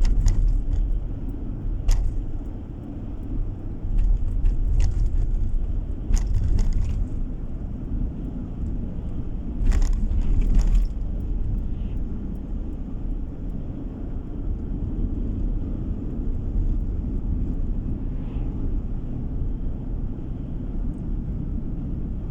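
Car driving on the road, heard from inside the cabin: a steady low rumble of tyres and engine, with a few short knocks and bumps in the first half.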